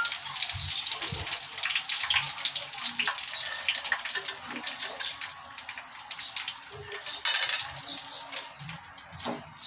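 Chicken frying in canola oil, a steady sizzle with scattered crackles that slowly fades toward the end.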